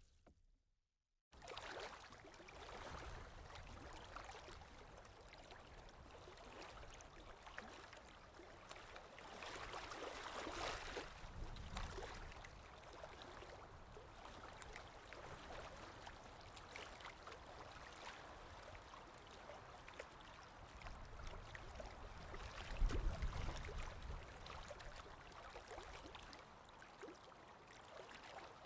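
Running water sound effect: a steady, fairly quiet stream of flowing water that starts about a second in.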